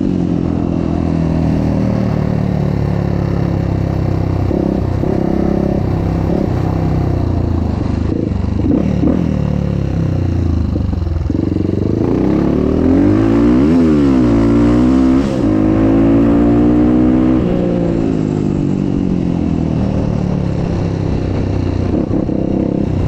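Motocross bike's engine running on the road, its pitch rising and falling with throttle and gear changes. Near the middle the pitch sweeps sharply up and back down.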